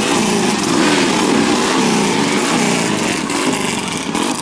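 Motorcycle engine running, its pitch rising and falling.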